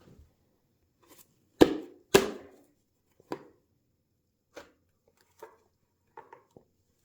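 A run of knocks and clicks from work on the bench: two sharp loud knocks close together about a second and a half in, then lighter taps and clicks every second or so.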